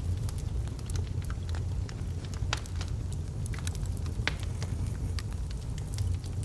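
Burning logs in a fireplace crackling and popping, with a steady low rumble of the fire beneath; the sharpest pops come about two and a half and four seconds in.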